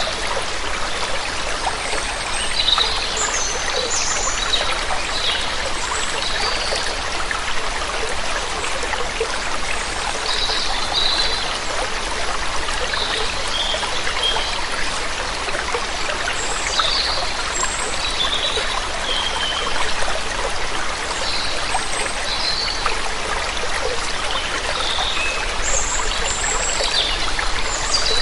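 Steady rush of a waterfall, with birds chirping here and there above it.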